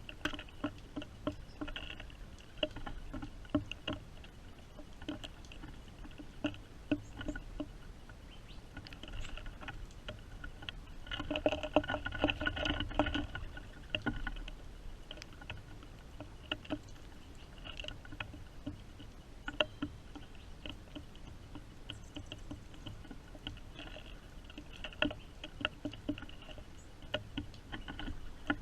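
Rain pattering and dripping onto a hard surface close to the microphone: irregular small taps that ring at the same few pitches, thickening into a denser flurry about halfway through.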